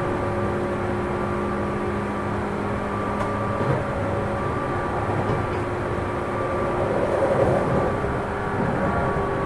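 Interior running sound of a JR 205-series electric train's motor car: its fan-cooled DC traction motors and gears hum at a steady pitch over wheel-on-rail rumble as the train runs between stations. About seven seconds in, a brief patch of rougher rail noise rises over the hum.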